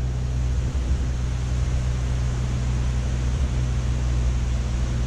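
Car driving along: a steady low rumble of engine and road noise with an even hiss above it.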